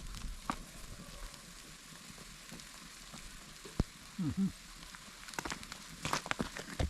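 Food sizzling in a frying pan over a campfire, a steady faint hiss. A sharp click comes about four seconds in, followed by a brief low-pitched sound, and several crackles and knocks near the end.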